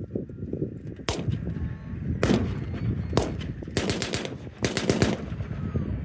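Small-arms gunfire with blank rounds: three single shots about a second apart, then two quick bursts of four or five rounds each, over a steady low rumble.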